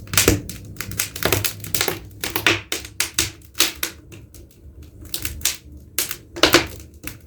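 Firewood crackling in a burning fireplace: irregular sharp snaps, a few a second.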